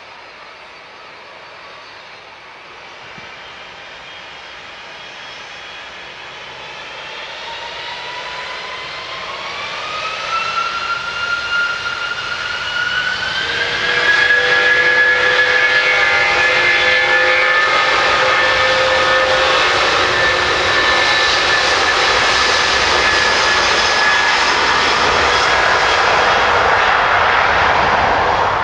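Airbus A330-200's Pratt & Whitney PW4000 turbofans spooling up to take-off thrust: a whine rises in pitch as the sound swells over the first half. About halfway through it settles into a loud, steady jet roar with a high whine on top.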